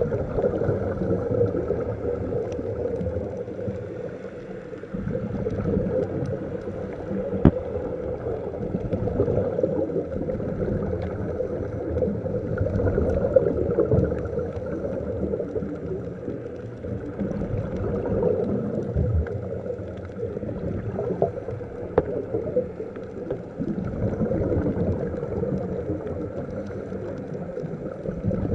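Muffled underwater sound of a scuba dive: a steady gurgling, bubbling rush that swells and fades every few seconds, with a few sharp clicks.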